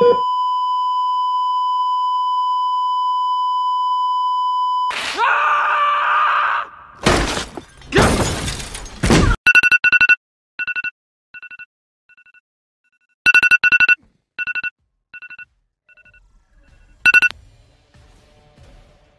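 Heart-monitor flatline: one steady electronic tone held for about five seconds, cut off by a few seconds of loud noisy sound effects. Then a mobile phone sounds a pattern of short electronic beeps that repeats about every four seconds.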